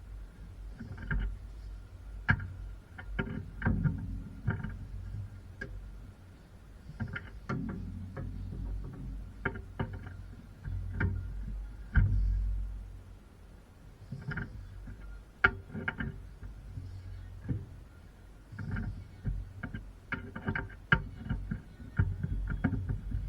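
Workshop handling of car suspension parts: irregular knocks, clicks and low thuds, the loudest a heavy thud about twelve seconds in, over a faint steady whine.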